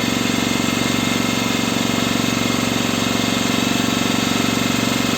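A boat's engine running steadily, with an even, fast pulse.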